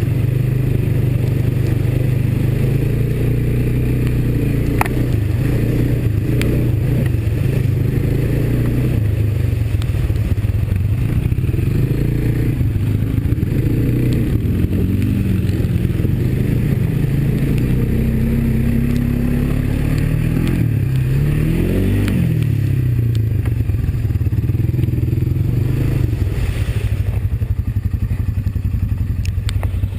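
Honda ATV's single-cylinder four-stroke engine running under way, with the revs rising and falling several times in the middle as the throttle is worked, and some scattered clatter and knocks.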